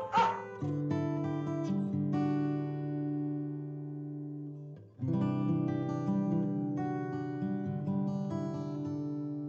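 Acoustic guitar music, plucked and strummed, with held notes and a short break about five seconds in. A single dog bark sounds right at the start.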